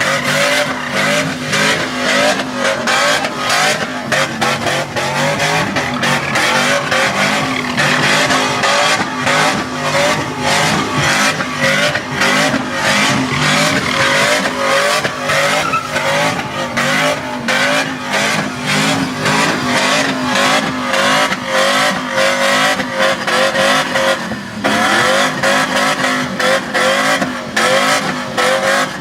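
Truck engines revving hard and held at high revs while the tires spin and squeal in burnouts and donuts, a continuous loud racket with rapid rev fluctuations.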